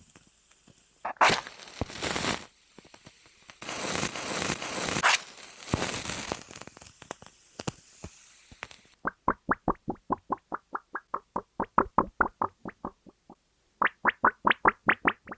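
Close-miked ASMR trigger sounds: several bursts of crinkly rustling and scraping with small clicks, then, from about nine seconds in, a fast, even run of short hollow plops, about four a second.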